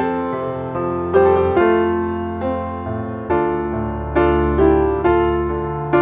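Slow, gentle piano music, chords struck about once a second and left to ring over a sustained bass.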